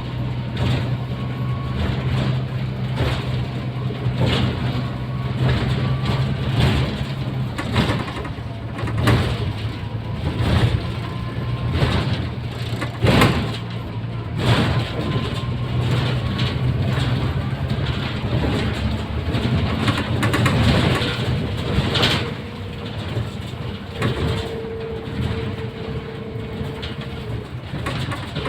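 Inside a Mercedes-Benz O530 Citaro city bus under way: a steady low engine drone with a faint whine that rises slowly in pitch, and frequent knocks and rattles from the body over the road. A steady higher tone sounds for a few seconds near the end.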